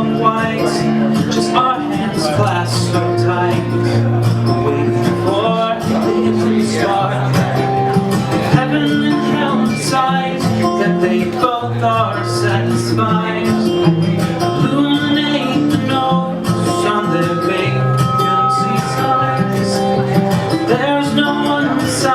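Acoustic guitar playing a steady chord accompaniment.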